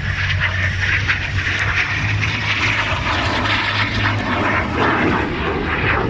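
Fixed-wing aircraft engine running loudly and steadily: a low drone under a rushing noise.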